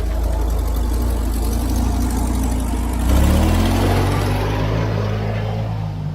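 David Brown 30 tractor engine running steadily, its pitch rising about halfway through as the revs pick up and then holding at the higher speed.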